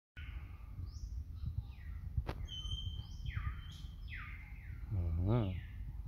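Wild birds calling: a series of clear whistles, each sliding downward, coming about once a second, with one steady held whistle in the middle. About five seconds in, a brief lower wavering sound rises and falls, over a steady low rumble.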